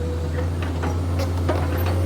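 Komatsu PC210 excavator's diesel engine running steadily, with a steady higher whine over it and a few light knocks scattered through.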